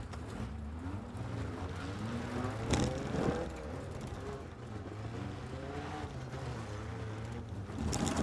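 Banger-race car's engine revving up and falling back again and again, heard from inside the cabin. A sharp knock comes about three seconds in and another near the end.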